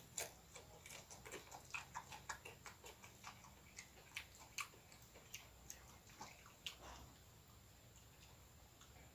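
Faint eating sounds of a person slurping in and chewing fried noodles: an irregular run of quick wet smacks and clicks from the mouth for about seven seconds, then quieter.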